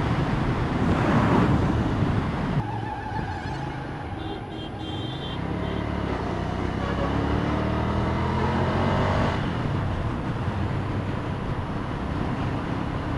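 Motorcycle engine and road noise while riding. Partway through, the engine speeds up with a rising pitch for a few seconds, then settles.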